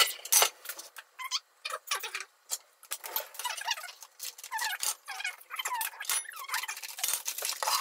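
Kitchen handling sounds: a frying pan clinks and knocks as it is set on a gas stove's grate and the burner is lit, with scattered clicks and many short squeaks.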